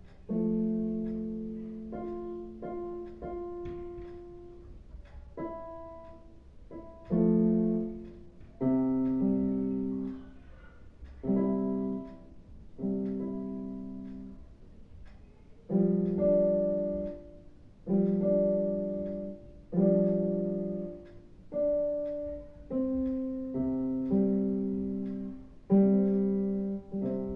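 Piano playing a simple piece in separate struck chords, each left to ring and fade before the next. The chords come about one to two seconds apart and are loudest in the second half.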